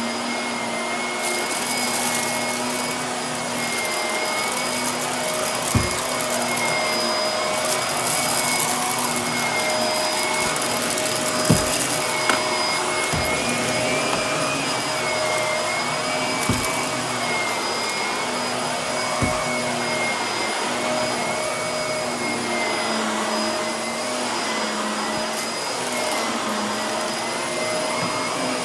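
Vacuum cleaner running steadily on carpet, its motor whine wavering slightly, with bouts of high crackling and about half a dozen sharp clicks as fine dirt and grit are sucked up.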